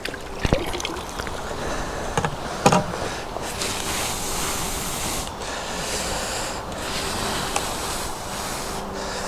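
Steady rushing noise of wind on the microphone, with a few sharp clicks in the first three seconds.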